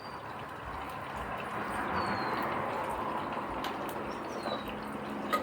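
A steady hiss that slowly grows louder, with a few faint short high chirps from birds and some light clicks.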